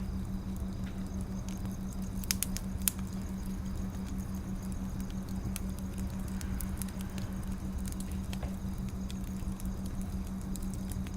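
Wood fire crackling, a dense run of small pops with a few louder snaps about two to three seconds in, over a steady low hum.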